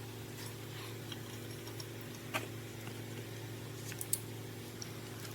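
A steady mechanical hum, with a few light metallic clicks and clinks of tools or parts being handled: one about two seconds in and a couple near four seconds.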